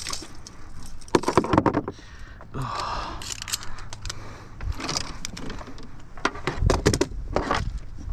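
Clattering and rattling of hard fishing gear being handled, with two clusters of sharp clicks and knocks, one about a second in and one near the end, over a low steady rumble.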